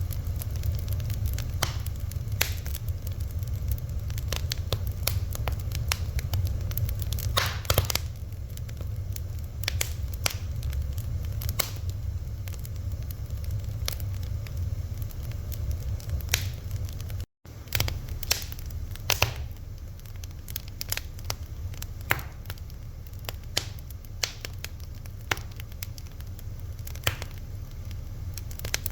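Fire crackling, with dense, irregular sharp pops and snaps over a steady low rumble. The sound cuts out for a split second a little past halfway.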